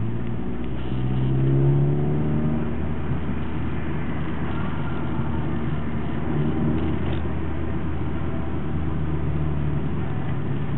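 A Honda Civic's engine heard from inside the cabin while driving. Its note rises as the car accelerates over the first couple of seconds, then runs steadily at speed over a haze of road and tyre noise.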